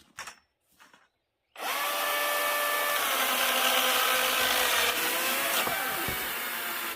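Battery-powered chainsaw starting up about a second and a half in and running steadily at full speed, its motor pitch dipping slightly twice as the chain bites into a log, then cutting off suddenly at the end. A few light clicks come before it starts.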